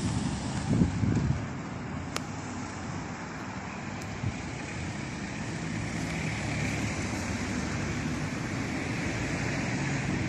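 Steady outdoor noise of wind and road traffic, with low buffeting from wind on the microphone in the first second or so.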